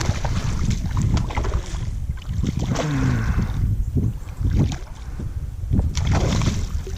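Wind buffeting the microphone as a heavy rumble, with scattered knocks and a brief falling squeak about three seconds in.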